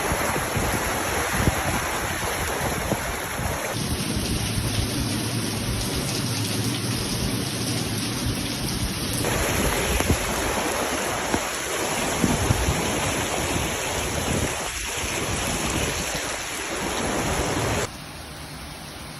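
Loud, steady rushing noise of heavy rain in a storm, with a few low rumbles. It changes abruptly three times, and drops in level near the end.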